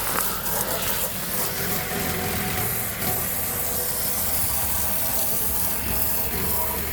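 Garden hose spraying water steadily onto the fins of a mini-split heat pump's outdoor coil, rinsing the dirt out. Beneath the spray there is a faint steady hum.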